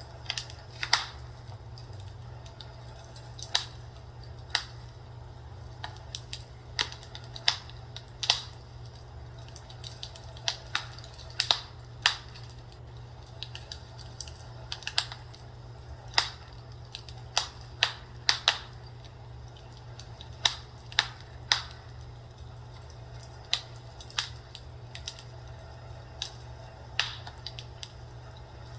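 Fireplace crackling: irregular sharp pops and snaps, one to three a second, over a steady low hum.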